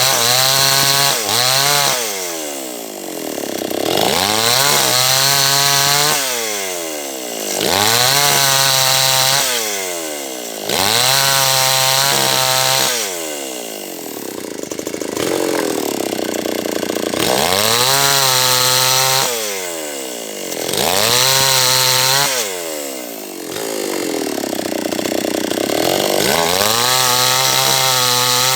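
H&L Pro 5800 two-stroke chainsaw revved to full throttle and let back down toward idle again and again, every three or four seconds, its pitch climbing, holding and falling with each burst as it works through a large teak log.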